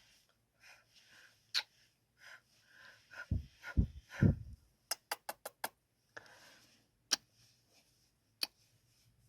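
Close-up ASMR kissing at the microphone: scattered wet lip smacks and clicks, with three louder, deeper kisses just past three seconds in and a quick run of five or six kisses about five seconds in.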